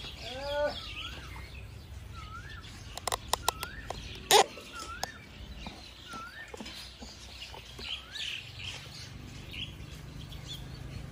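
A bird repeating a short whistled note that rises then falls, about once a second. A few sharp clicks sound about three seconds in, and a louder single knock about four seconds in.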